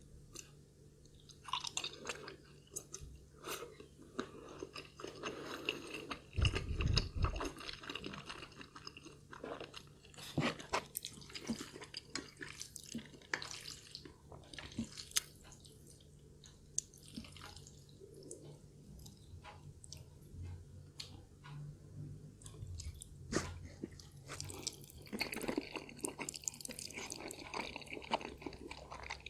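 Close-miked chewing and mouth sounds of a person eating, with many short wet clicks and smacks. The sounds come in irregular bunches and are busiest near the end.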